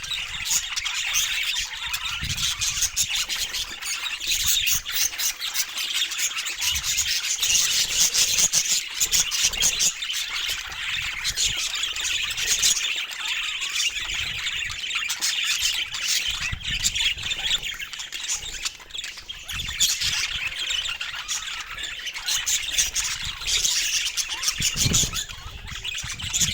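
Budgerigars chattering and squawking in a dense, unbroken stream of short high chirps and warbles.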